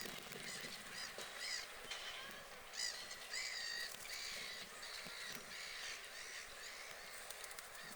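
Birds on a lake calling, many short, high calls, some rising and falling in pitch, coming one after another and overlapping.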